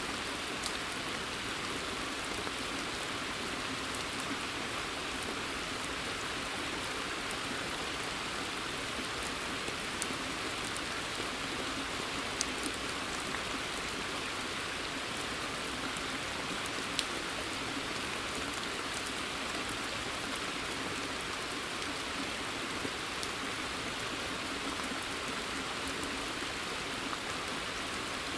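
Steady rain falling on a pond's surface and the surrounding forest, an even hiss. A few single drops tick sharply close to the microphone.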